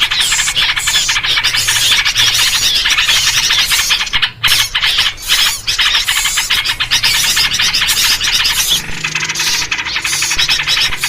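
Loud, dense chatter of many small birds calling at once: a bird-lure 'ribut' commotion recording built around sooty-headed bulbul (trucuk) calls. The calling thins for a moment about four seconds in and shifts in texture near the end.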